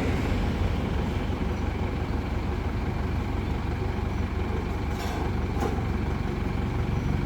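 Crane's engine running steadily with a low rumble, with a couple of faint clicks about five seconds in.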